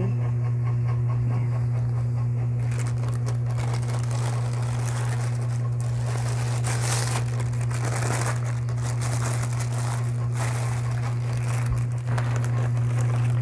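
Crinkling and rustling of plastic stuffing and a sling bag being handled, starting a couple of seconds in, over a steady low hum.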